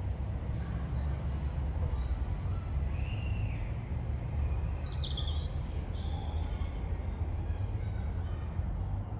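Several songbirds chirping and trilling in short high calls, one giving a quick falling note about five seconds in, over a steady low rumble of road traffic.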